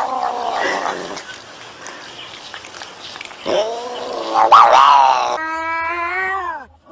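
Domestic cat caterwauling: long, drawn-out wavering yowls. One fades out about a second in; another starts about three and a half seconds in, is held for some three seconds and drops in pitch as it ends.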